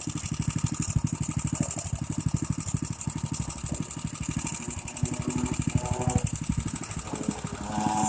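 A small petrol engine idling with a steady, even chug, as from a dirt bike or four-wheeler.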